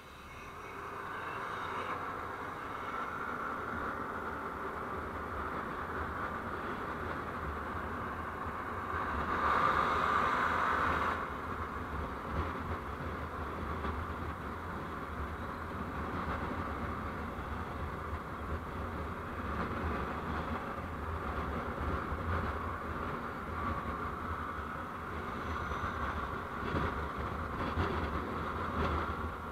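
Steady running noise of a moving road vehicle recorded on board: a low rumble under a hiss of road and wind noise, rising in level about ten seconds in for a second or two before settling back.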